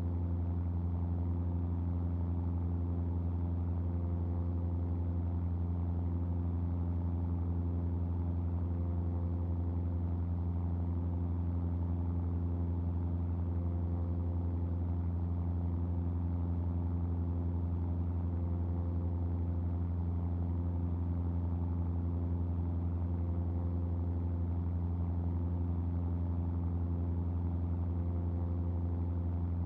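Cessna R182 RG's six-cylinder Lycoming engine and propeller droning in steady cruise flight, a constant low hum that does not change in pitch or level.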